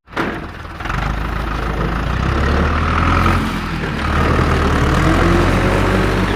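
Truck engine running steadily with a deep rumble, setting in abruptly and filling out about a second in.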